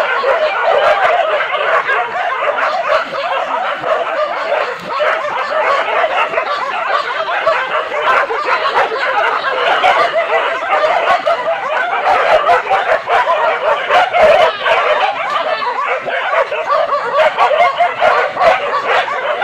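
A pack of hunting dogs barking and yelping without a break, many voices overlapping, as they fight a wild boar.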